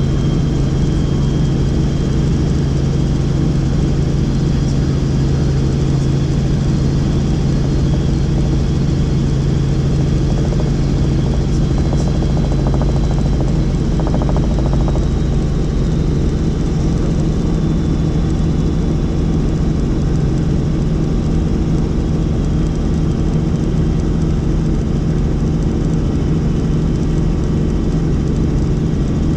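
A helicopter in flight: a steady, loud drone of rotor and turbine with a strong low hum that holds constant, and a faint high whine above it.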